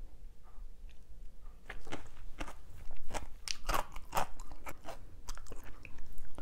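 A person chewing crunchy food with the mouth closed: a run of crisp crunches begins about a second and a half in and is thickest around the middle.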